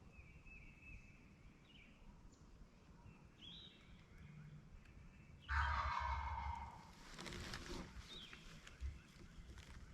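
A wild turkey tom gobbles once, a loud rattling gobble about halfway in that lasts over a second. Small birds chirp faintly before it.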